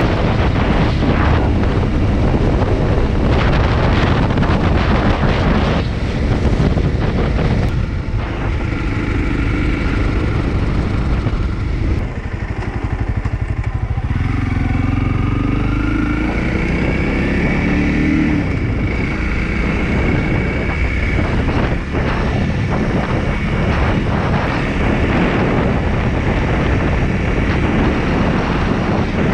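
Honda CRF300L's single-cylinder engine running under way, with the engine note rising and falling through the gears about halfway through.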